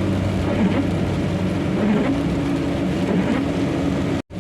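Truck engine and road noise heard from inside the cab while driving: a steady low drone. It cuts out completely for a moment near the end.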